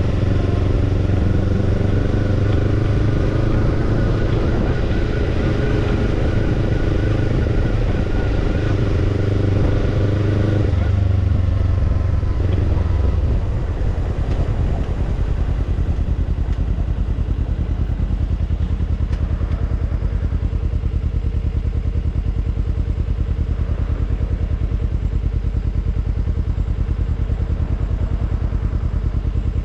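Kawasaki Ninja 250 parallel-twin engine breathing through a BEET NASSERT Evolution Type II titanium slip-on muffler, holding steady revs at first. About eleven seconds in the revs drop, and it settles into a lower, even exhaust beat for the rest.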